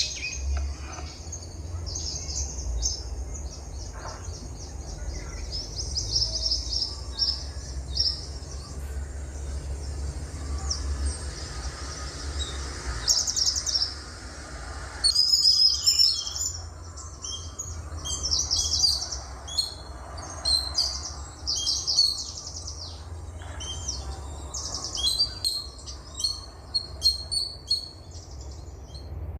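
Several small songbirds singing and chirping, with quick high trills and twittering that grow busier about halfway through, over a steady low rumble.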